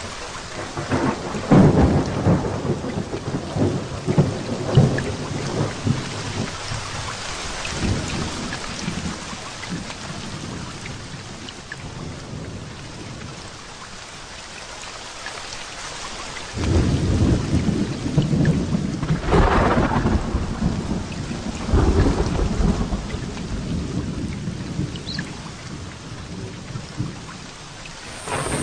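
Heavy rain falling steadily through a thunderstorm, with rolling thunder: rumbles near the start, and a longer, louder roll a little past halfway.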